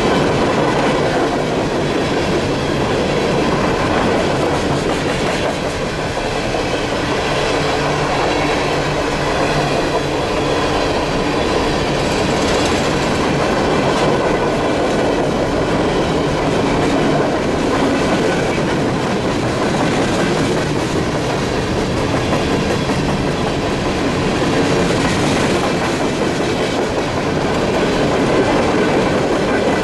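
Empty coal hopper cars of a CSX unit freight train rolling past at track side: a steady, continuous clatter of wheels on the rails.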